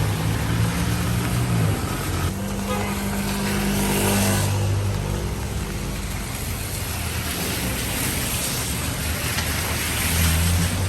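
Road traffic passing on a wet road: car engines running and tyres hissing. A vehicle passes close about four seconds in, and another swells up near the end.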